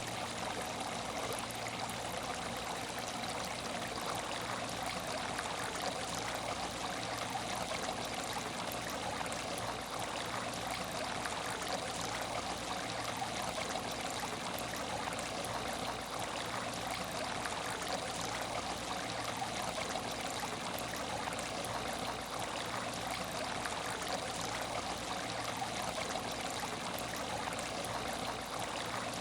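Water in an aquarium tank trickling steadily, with many small splashes throughout, over a faint low hum.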